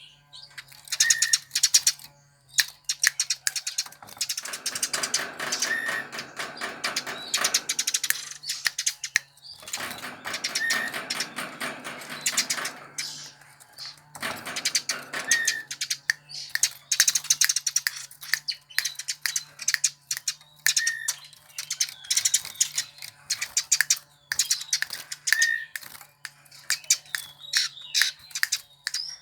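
Eurasian tree sparrow (burung gereja) chirping and chattering in fast, sharp, high notes, with denser, louder runs now and then.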